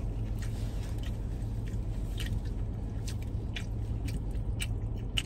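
Close-up chewing and mouth sounds of people eating a chicken cobb wrap, with small irregular clicks and smacks, over a steady low hum.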